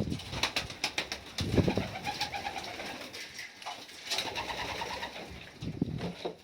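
Domestic pigeons cooing in a loft: three low, swelling coos, with scattered small clicks and knocks in between.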